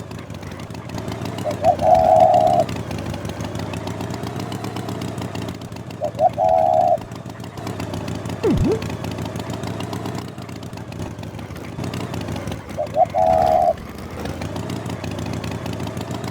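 An engine running steadily, with three short higher tones, each led by two quick blips, and a quick falling whistle about two-thirds of the way through.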